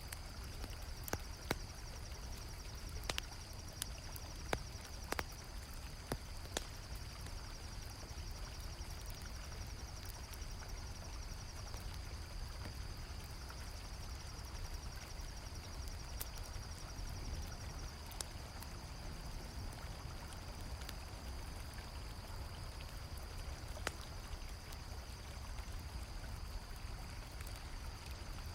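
A river flowing steadily, with crickets trilling continuously and a campfire crackling in sharp pops, several in the first seven seconds and a few more later.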